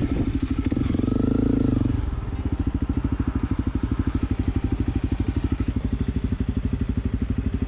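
Honda CRF250L's single-cylinder engine running at low revs, its note rising briefly about a second in, then settling into a steady, even putt.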